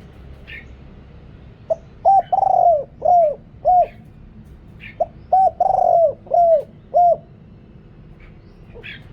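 Spotted dove cooing in two phrases about three seconds apart. Each phrase has four or five coos, one of them longer and drawn out. Faint short chirps from other small birds come between the phrases.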